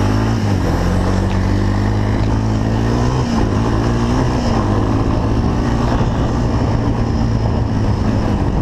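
Four-wheeler (ATV) engine running steadily, its pitch rising and falling a little as the throttle changes.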